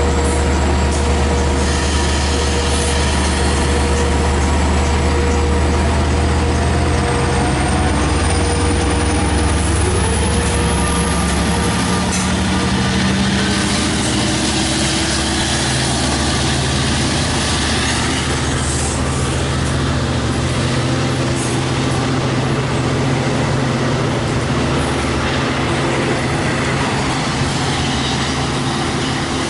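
LIRR DE30AC diesel-electric locomotive running steadily, its engine note shifting a couple of times. A faint high whine rises slowly over the first dozen seconds.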